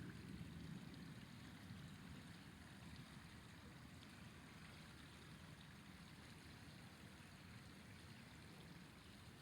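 River water flowing: a faint, steady rush, with a low rumble that eases off over the first couple of seconds.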